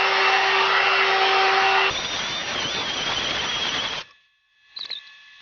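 One-step 2-in-1 hot-air brush hair dryer running, a loud rush of air with a steady motor whine; about two seconds in its sound changes and gets a little quieter, and it cuts off suddenly about four seconds in, followed by a couple of faint clicks.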